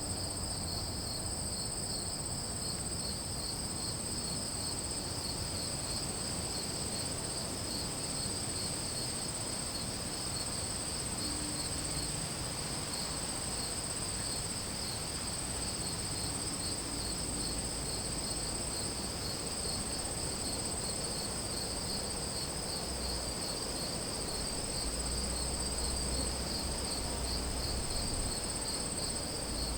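Chorus of crickets and other insects: a steady high-pitched trill runs alongside a slightly lower, rapidly pulsing chirping, over a faint low rumble.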